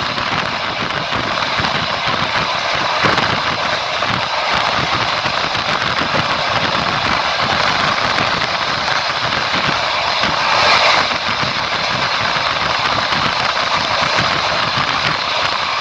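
Train in motion: steady rolling noise of wheels on the rails, with a short louder swell about ten seconds in.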